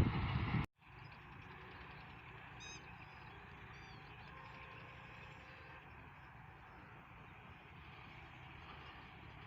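Loud rumbling train noise cuts off abruptly under a second in, leaving quiet outdoor background with a few faint bird chirps.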